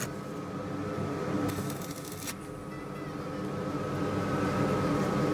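Steady droning hum of shop machinery or ventilation, holding several fixed pitches, with a short hiss lasting under a second about a second and a half in.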